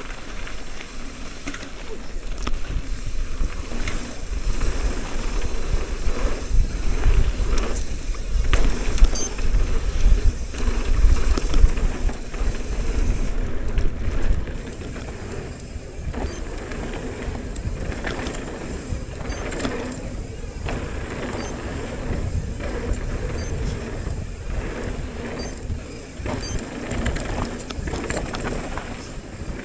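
A mountain bike descending a dirt trail: wind rumbling on the microphone, tyres rolling over dirt and rock, and short knocks and rattles as the bike takes bumps. It is louder and rougher for about the first half, then eases off about halfway through.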